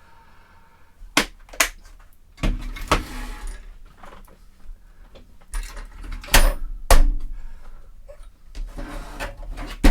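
Drill-bit cases being handled: a series of sharp clicks and knocks, with scraping and rattling in between, the loudest about six to seven seconds in.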